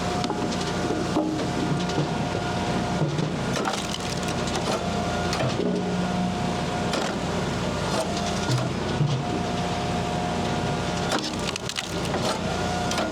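Hydraulic firewood splitter working through sweet gum rounds: wood cracking and splintering as pieces split, with sharp knocks of split wood, over the steady hum of the splitter's engine and hydraulics.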